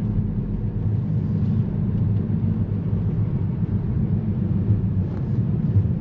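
A 2014 Volkswagen Passat TDI being driven: a steady low rumble of its turbodiesel engine mixed with road noise.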